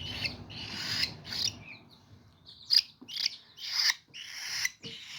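Hand-fed baby cockatiel chicks, about two weeks old, giving raspy, hissing begging calls: a quick series of short hoarse calls about one every half second, with a brief lull around two seconds in.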